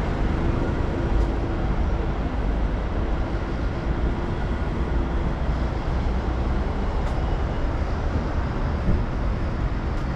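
Steady city street traffic noise: a continuous low rumble of passing vehicles, with a faint steady hum in the first half.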